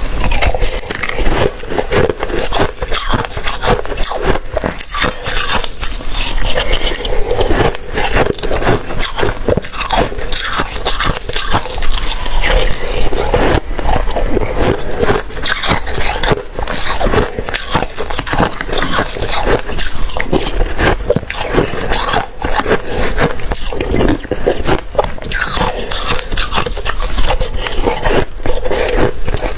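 Close-miked biting and chewing of wet, slushy ice: a steady run of crunching and crackling bites with no pauses.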